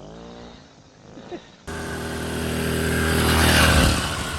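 Two-stroke motorized bicycle engine running at speed. It starts abruptly about one and a half seconds in, grows louder as it approaches, and drops in pitch and level as it passes near the end.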